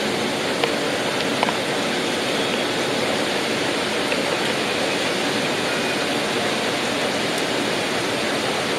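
Steady rain falling: an even, unbroken hiss with a few faint ticks of drops.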